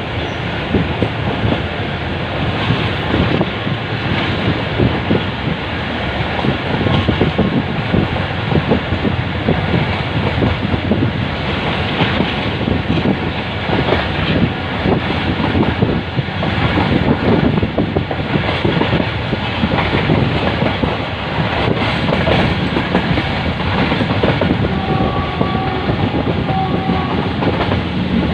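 Karachi Express passenger train running on the rails: a steady rumble with the clickety-clack of wheels over rail joints.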